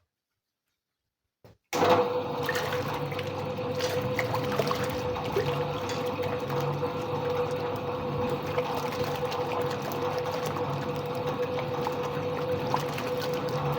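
Soviet washing machine starting up about two seconds in and running steadily: a motor hum with a steady tone, over water churning in the tub with a slow, even pulse.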